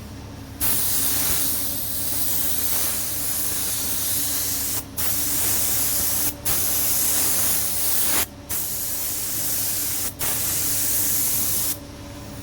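High-temperature primer being sprayed onto engine parts, a loud steady hiss that stops for a moment about four times as the spray is let off and restarted, ending shortly before the end. A steady low hum runs underneath.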